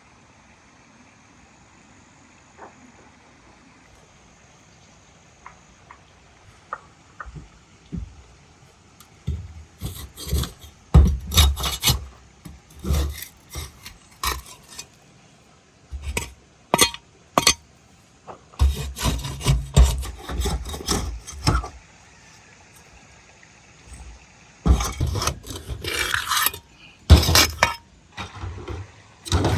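Rough scraping and rubbing in several spells of a few seconds each, starting after a quiet opening.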